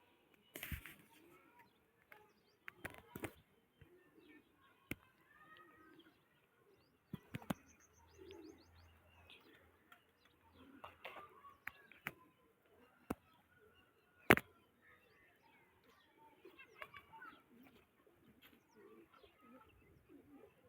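Birds chirping and calling on and off, with scattered sharp clicks or knocks, the loudest about 14 seconds in.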